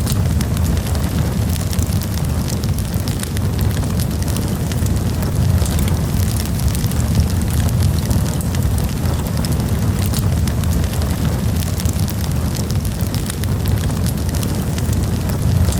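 Campfire burning, with frequent short crackles and pops from the burning wood over a steady low rumble.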